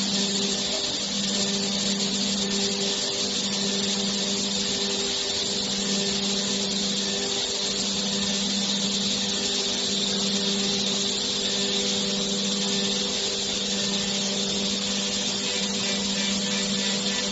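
Door panel sawing and milling machine running steadily: an even motor hum under a loud hiss, the hum dipping briefly a few times in the first half.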